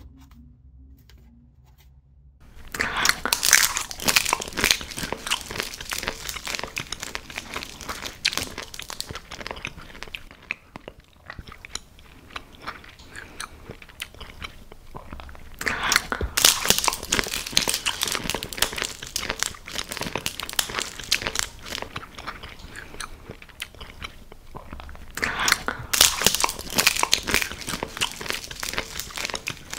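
Close-miked ASMR eating sounds: crunchy biting and chewing that starts after about two and a half seconds, with loud bouts of crunching near the start, about halfway through and near the end.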